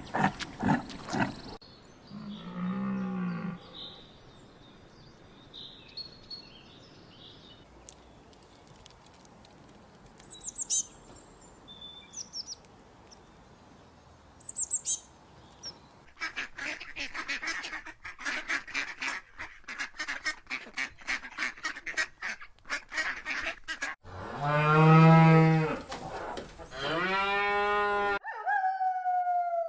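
A string of different animal calls, one after another. There is a low call about two seconds in, faint high chirps in the middle, then a long stretch of dense, rapid honking chatter. Two loud, low, drawn-out calls follow, and a falling, gliding call comes near the end.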